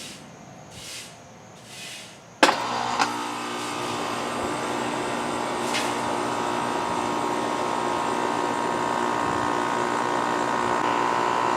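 A heat pump's outdoor unit starting up: about two and a half seconds in, the compressor kicks on with a sudden thud, then runs with a steady hum that grows slightly louder.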